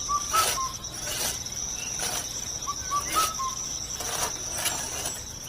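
Insects, likely crickets, keep up a steady high-pitched drone. A bird sings a short phrase of four quick notes twice. Sharp knocks or taps come roughly once a second throughout.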